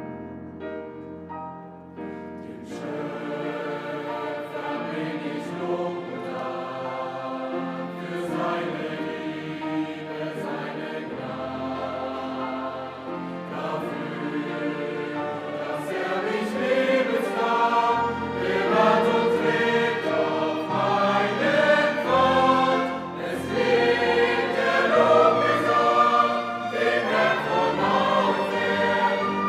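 Background music of a choir singing held chords, growing louder in the second half.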